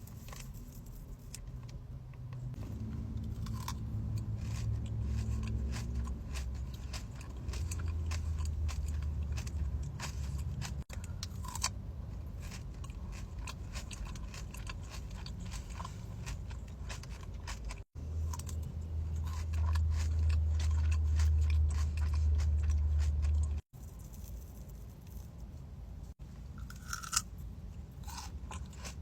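Close-miked crunching and chewing of a Dubai chocolate bar, a chocolate shell filled with pistachio cream and toasted kataifi pastry. There are many small crisp crackles, with stretches of heavy low rumble from the chewing.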